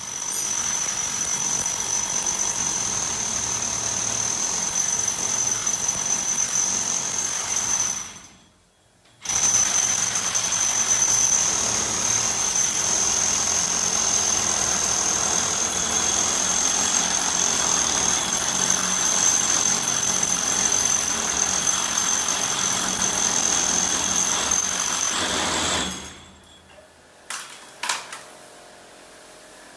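Electric drill running under load with a high steady whine, in two long runs with a brief stop about eight seconds in. It cuts off a few seconds before the end, followed by a couple of short clicks.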